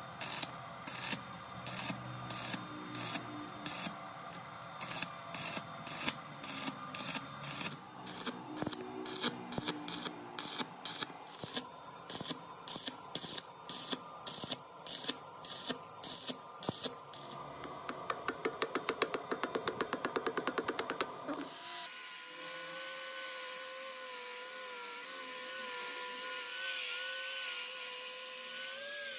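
Repeated hand-tool strokes in a workshop, about two a second, quickening to a rapid run of strokes around 18 s; after about 22 s a small electric motor runs steadily with a slightly wavering whine.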